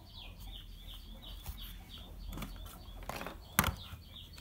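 A bird chirping over and over, a short falling chirp about three times a second. About three and a half seconds in, a sharp knock as the plastic 12V battery pack is set down on the table, with a few lighter handling noises before it.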